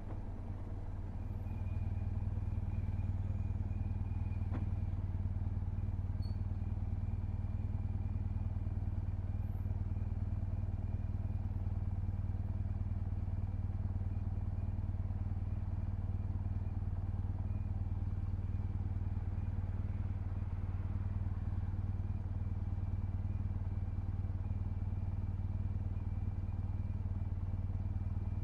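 BMW R1200GS's flat-twin boxer engine running at a steady engine speed, its deep note unchanging in pitch; it gets a little louder about a second and a half in.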